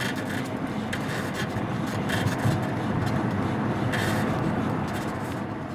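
Tesla Model 3 on the move, heard from inside the car: steady road rumble with several short, irregular squeaks from the front right suspension, where worn front control arms (Querlenker) squeak, a known fault on the Model 3 and Y.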